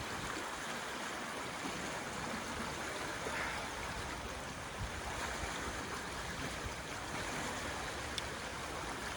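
Swollen river flowing fast after prolonged heavy rain: a steady, even wash of water.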